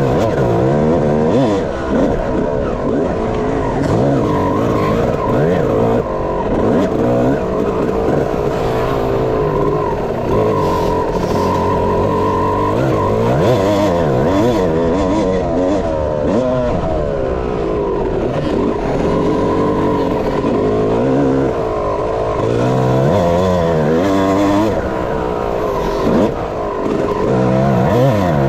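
Dirt bike engine being ridden hard, its pitch rising and falling over and over as the rider opens and closes the throttle and shifts.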